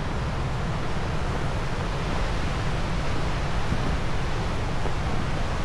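Black Sea surf and strong wind on an open beach, a steady rushing noise with wind buffeting the microphone.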